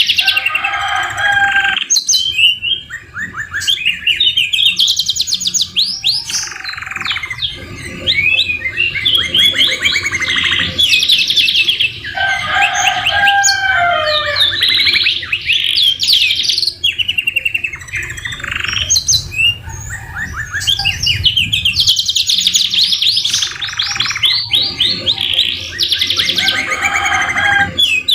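Domestic canary singing a long, unbroken song of fast trills and rolls, the notes repeated rapidly in runs, with a few lower whistled slurs about halfway through. The song is filled with phrases copied from the white-rumped shama (murai batu).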